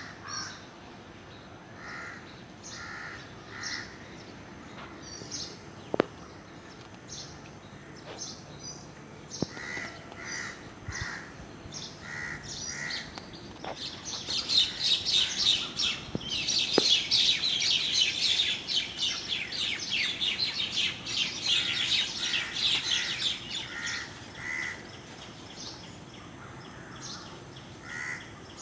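Several birds calling outdoors: short calls repeated in twos and threes, with higher chirps above them. About halfway through, a dense flurry of rapid, high chirping sets in for roughly ten seconds and is the loudest part.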